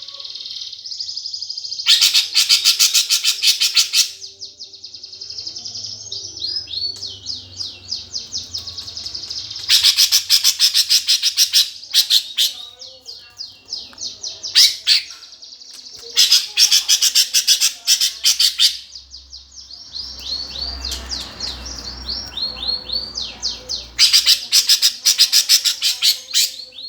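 Eurasian tree sparrows chattering in a fight: loud runs of very rapid, high chirps come in four bursts, with sparser, downward-sliding chirps between them.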